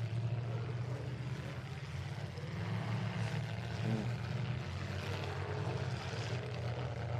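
Demolition derby trucks' engines running steadily, a low rumble with a faint background haze.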